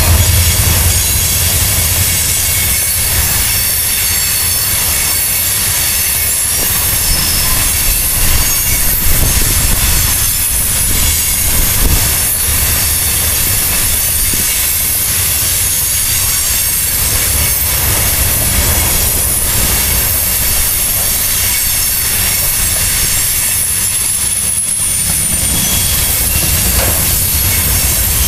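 Iron ore hopper cars rolling past, steel wheels rumbling and clattering over the rail with a faint high wheel squeal.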